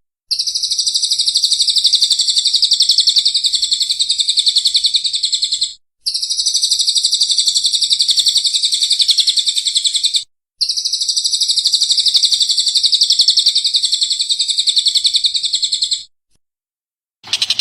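Recorded songbird song used as masteran: a rapid, high trill of fast-repeated notes in three long runs of about four to six seconds each, each stopping abruptly as if edited. Just before the end a different, noisier sound starts.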